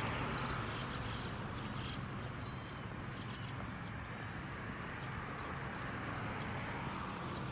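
Steady outdoor background noise with a low hum, and faint, scattered short high-pitched chirps or ticks.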